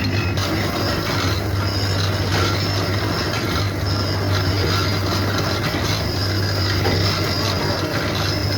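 Steady machinery noise with a constant low hum under a continuous rushing clatter.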